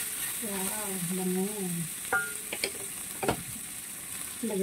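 Minced pork with garlic and shallots sizzling in a hot pan as it is stirred with a wooden spatula, with a few sharp clacks around the middle. Near the end, carrot sticks are tipped in from a bowl. A person's voice sounds softly in the first half.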